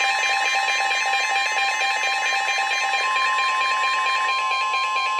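NOAA Weather Radio warning alarm: a steady, shrill single tone near 1 kHz that marks an incoming severe weather warning, over a rapidly warbling, data-like pattern of tones that stops about four seconds in.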